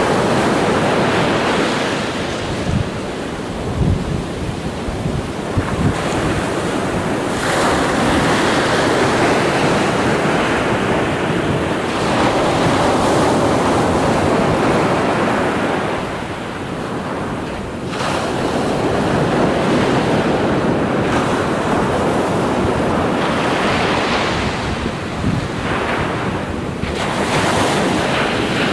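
Ocean surf: waves breaking and washing in one after another, swelling and easing every few seconds, with wind rumbling on the microphone.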